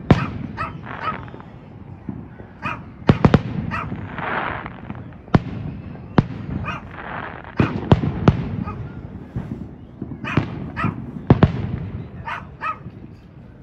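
Neighbourhood fireworks going off in a string of sharp bangs and booms, with a dog barking in short bursts between them.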